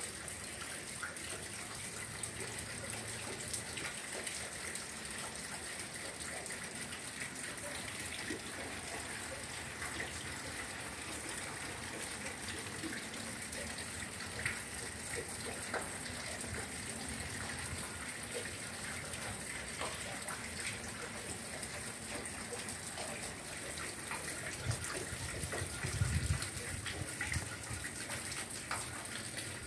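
Steady rain falling on tiled roofs and garden leaves: a dense hiss with many small drips. A brief low rumble comes near the end.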